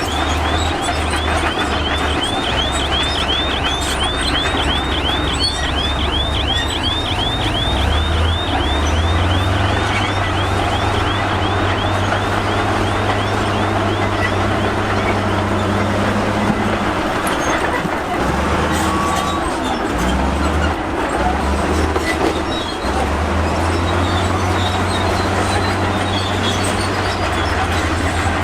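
Crawler bulldozer's diesel engine running hard, with its steel tracks clanking. For the first half a high track squeal repeats about three times a second.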